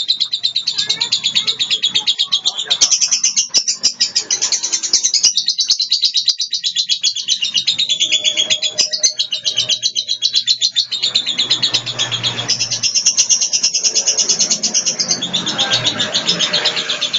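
Blue lovebird singing a long ngekek: a high-pitched, very fast chattering trill that runs on with only short breaks.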